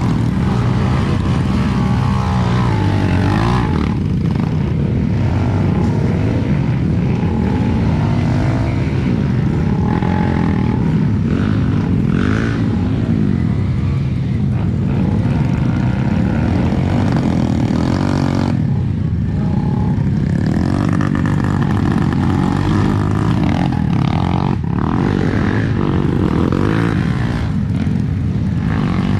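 Dirt bike engine running under load, its revs rising and falling again and again as it is ridden over rough trail.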